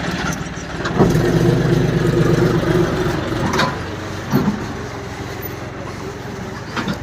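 Tractor engine running steadily, louder for a couple of seconds from about a second in before settling back to a lower run, with a few short sharp sounds over it.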